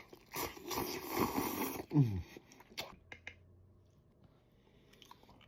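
Instant ramen noodles slurped noisily for about two seconds, followed by a short falling hum and a few soft mouth clicks of chewing.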